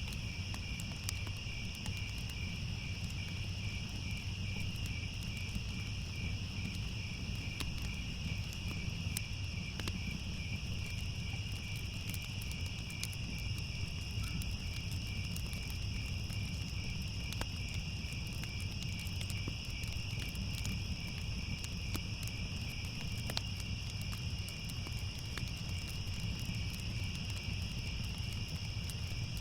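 Crickets chirping in a steady, fast pulsing chorus with a second high, continuous insect trill, over a low steady rumble and scattered faint crackles like a fire burning.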